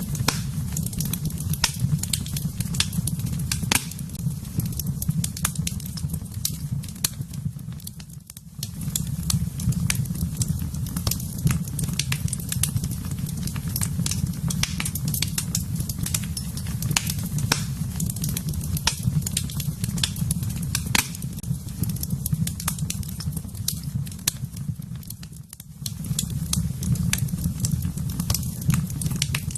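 Wood fire in a fireplace crackling, with frequent sharp pops and snaps over a steady low rumble of burning. The low rumble drops away briefly twice, about a third of the way in and again near the end.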